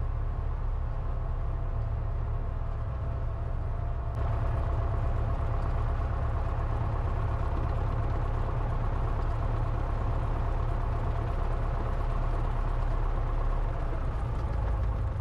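Cessna 172's piston engine running steadily at low power while taxiing, with a heavy low rumble. It gets a little louder about four seconds in.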